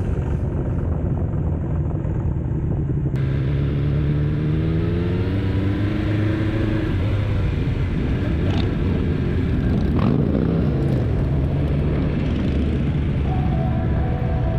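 BMW S 1000 XR's inline-four engine running on the road, its pitch climbing steadily for a few seconds as the bike accelerates. The sound then turns busier and less steady, with two sharp ticks about a second and a half apart around the middle.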